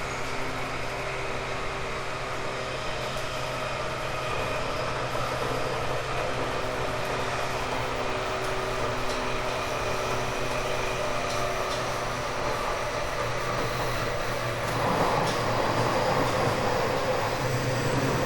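JR 189-series electric express train running, heard inside a motor car: a steady hum with a few held tones over wheel-on-rail noise. The rail noise grows louder and rougher about fifteen seconds in.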